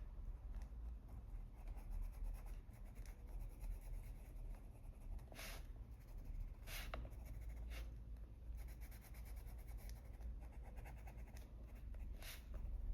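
Coloured pencil scratching on paper in light, small circular strokes, faint, with a few sharper scratches.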